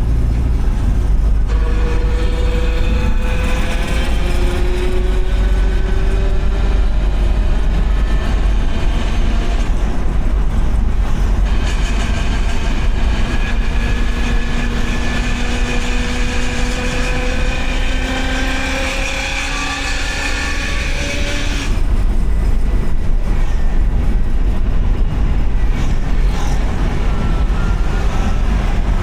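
Car driving on a wet road: a steady low rumble of road and engine noise, with engine tones that rise slowly as it picks up speed, and long stretches of tyre hiss.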